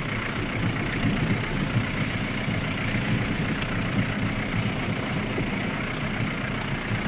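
Vehicle engine running steadily at low revs while driving slowly down a rough dirt road, with an even rumble of engine and road noise.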